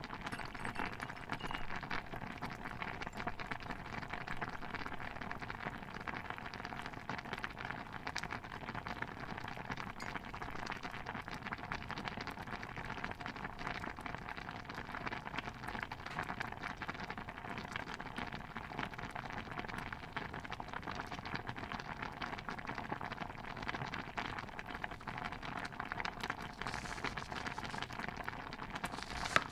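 Stew bubbling steadily in a pot, a dense patter of small pops and crackles.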